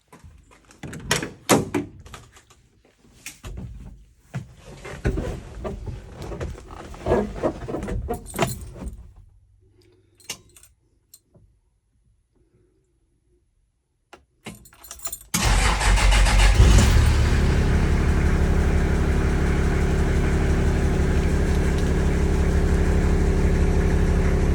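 Keys jangling with clicks and knocks of handling for several seconds, then quiet. About 15 seconds in, a Toyota Land Cruiser FJ45's straight-six petrol engine fires abruptly on a cold start, flares for a moment, then settles into a steady idle.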